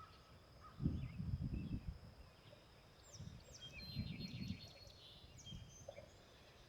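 Faint songbirds chirping, with a quick run of high notes and short falling whistles a few seconds in. Three low muffled rumbles come about a second in, around four seconds in and around five and a half seconds in.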